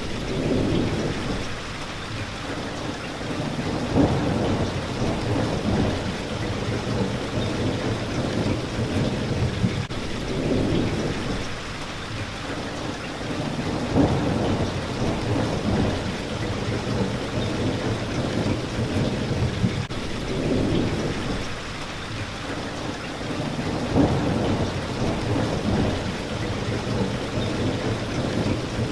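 Steady heavy rain hitting a window pane, with low rumbles of thunder swelling and fading every few seconds and a few sharper hits.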